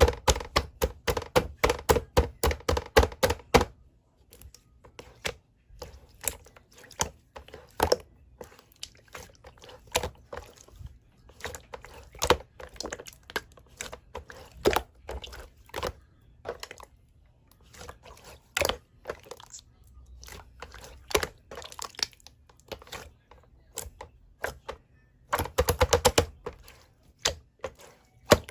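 Slime being pressed and worked by hand, making sticky clicks and pops. A fast run of clicks comes first, then scattered pops, and another quick run near the end.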